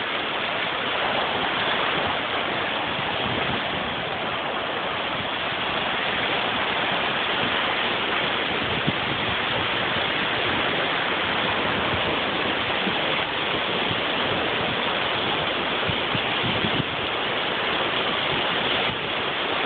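Steady rush of water from a small waterfall and its stream, an even splashing with no let-up.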